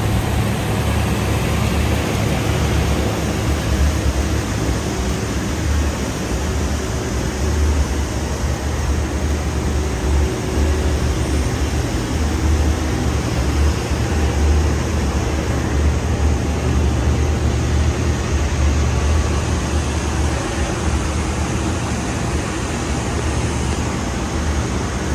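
Rock wool production line machinery running steadily: an even roar with a deep hum underneath and no break or change.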